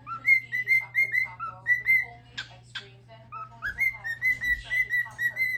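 Cockatiel singing: a run of short whistled notes at about the same pitch, broken a little past halfway by two sharp chirps and a short pause, then the whistled run starts again.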